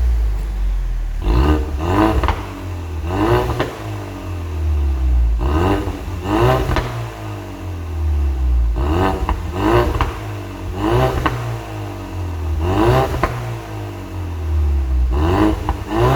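Ford Mustang 2.3 EcoBoost turbocharged four-cylinder, fitted with aftermarket mufflers on a custom valved exhaust, revved in about ten quick blips. Each rev climbs and falls back to a deep exhaust rumble.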